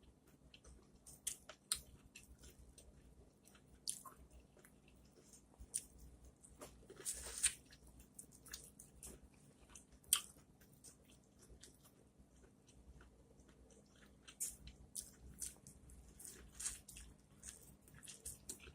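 Close-miked biting and chewing of corn on the cob: faint, scattered wet clicks and crunches, with a longer, louder one about seven seconds in.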